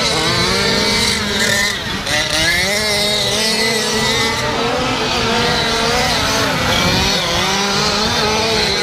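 Several 1/5-scale gas RC trucks' small two-stroke engines racing together, revving up and down with overlapping pitches that rise and fall.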